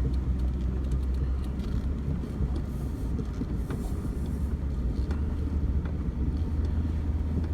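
Vehicle engine running steadily while driving, heard from on board: a low drone with scattered light rattles and knocks.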